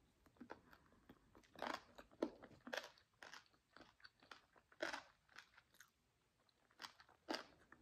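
Close-miked chewing of jerk chicken pulled from the bone. There is an irregular string of sharp, crisp mouth sounds with short quiet gaps between them.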